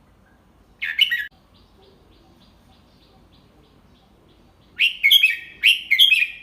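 Red-whiskered bulbul song: a short loud phrase about a second in, then a longer phrase of several quick, clear notes near the end, with faint rapid chirping in between.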